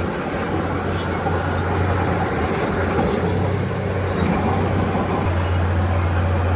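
Heavy diesel earth-moving machinery running steadily with a low engine drone, with a few faint short high squeaks.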